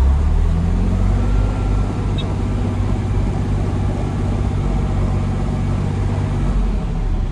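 Truck engine heard from inside the cab while driving, a steady low drone whose pitch climbs slightly about a second in and then holds.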